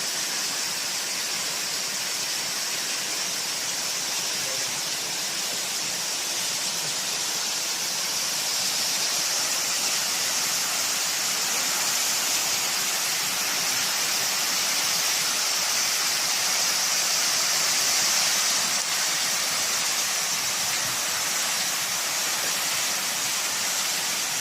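Waterfall water rushing and splashing as a steady, hissy noise, getting a little louder partway through.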